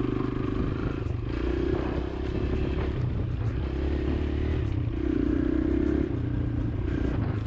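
Kawasaki KLX140L dirt bike's single-cylinder four-stroke engine running under way, its revs rising and falling every second or two as the throttle is opened and eased off.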